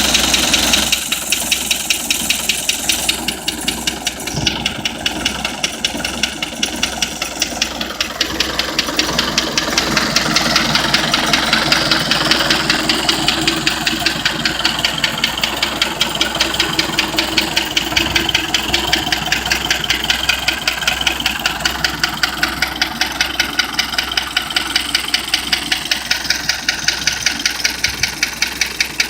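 Handmade tractor's engine running steadily, a fast, even beat of exhaust pulses at about five a second.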